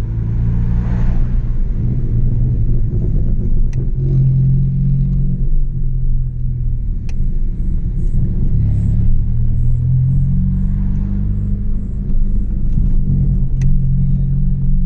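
Chevrolet Astra 2.0 four-cylinder engine through a straight-through exhaust with no muffler, a deep steady drone while driving. The engine note shifts slightly about four seconds in and again about ten seconds in.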